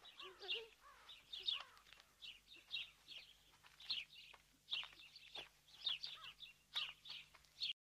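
Birds chirping: many short, high, quick chirps, faint. They cut off suddenly near the end.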